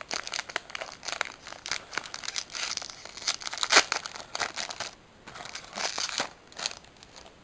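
Pokémon booster pack's foil wrapper being torn open and crinkled by hand: a run of crackling rustles, with the loudest tear a little under four seconds in, dying down near the end.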